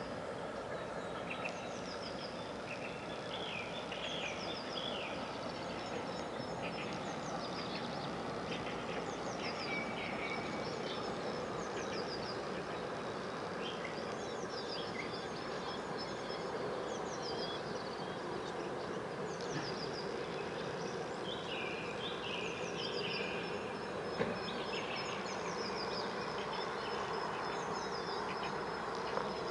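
Birds singing and chirping: many short, high chirps and quick falling notes repeating throughout, over a steady low hum.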